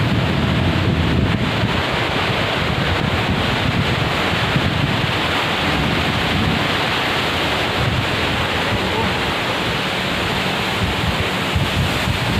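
Waterfall pouring down close by: a loud, steady rush of falling water, with wind and spray buffeting the microphone in uneven low rumbles.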